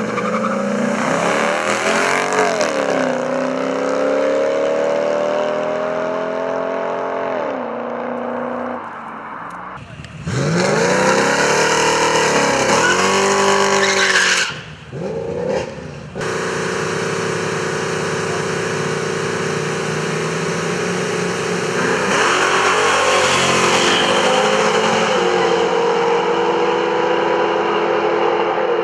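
A Chrysler Crossfire SRT6 and a Pontiac GTO accelerating hard side by side in a street race, their engines revving up with the pitch climbing, then dropping at each gear change. The sound cuts off abruptly a few times and picks up again.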